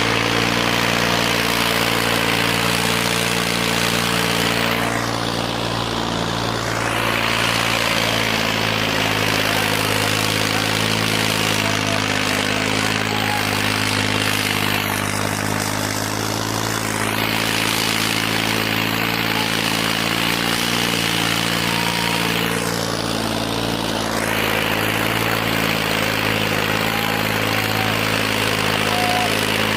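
Tractor diesel engine running steadily at a constant pitch.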